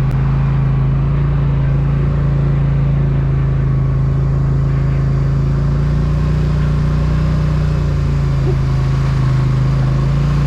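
Polaris Sportsman ATV engine running under steady throttle, its pitch holding even and rising slightly a little past halfway through.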